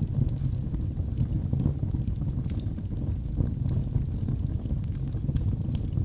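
Wood fire burning in a fireplace: a steady low rumble of the flames with scattered small crackles and pops from the burning logs.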